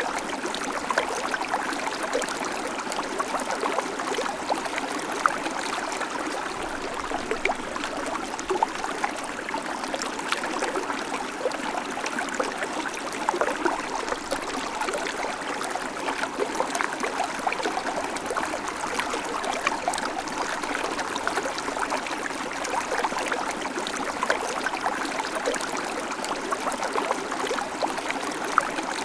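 Babbling creek: a steady rush of flowing water over stones, with constant small splashes and gurgles.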